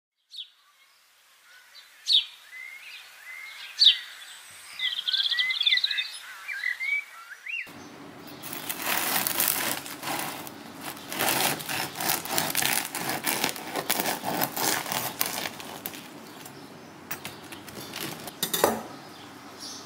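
Birds chirping for the first several seconds. Then a bread knife saws through the crisp crust of a round no-knead olive loaf: a dense, crackling crunch of the crust breaking, starting suddenly about eight seconds in.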